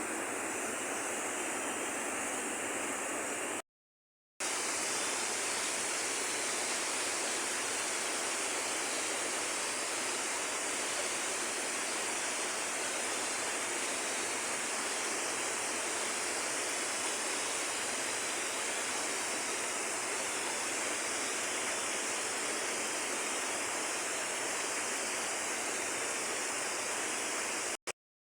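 Jungle river water rushing steadily. It drops out to silence for under a second about four seconds in and again near the end, where the recording is spliced.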